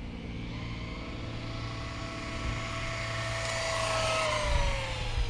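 Electric RC trophy truck's motor and drivetrain whining as it speeds up, the pitch climbing for about four seconds and then falling away as it slows or passes, over tyre hiss.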